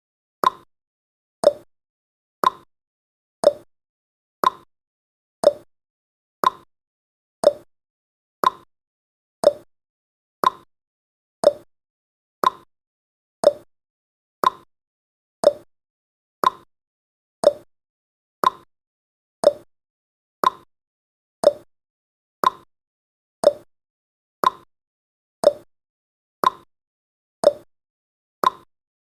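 A countdown timer's short digital sound effect, repeated once every second. Each one is a brief blip that drops slightly in pitch.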